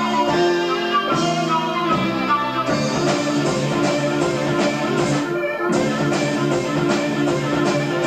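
Live progressive rock band playing: electric guitar over bass, keyboards and drums, heard through an amateur concert tape recording. About two and a half seconds in the texture changes, with steady held notes entering underneath.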